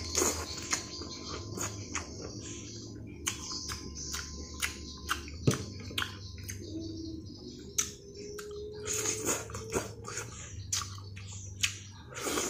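Close-up eating sounds of a mouthful of rice and boiled cassava shoots being chewed, taken in by hand: wet chewing with sharp lip smacks and clicks, a few every second.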